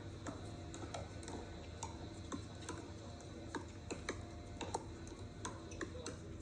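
Pickleball paddles striking the plastic ball: sharp pocks at irregular spacing, about two or three a second.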